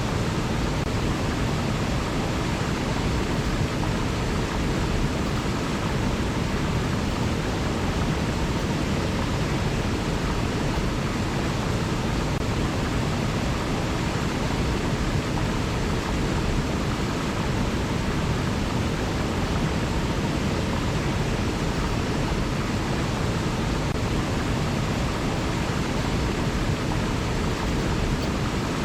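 Steady rush of a flowing river, even throughout, with most of its weight in the low range.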